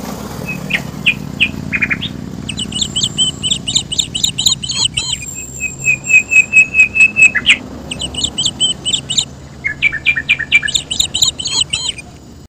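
Birds singing: quick chirping phrases and trills, with a run of about a dozen loud, evenly repeated notes in the middle, over a low steady hum.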